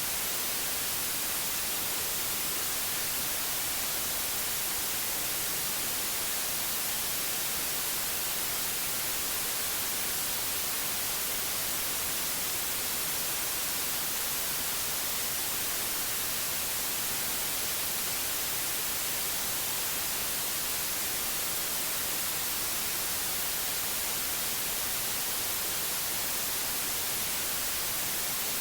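Steady white noise: an even hiss, brightest in the treble.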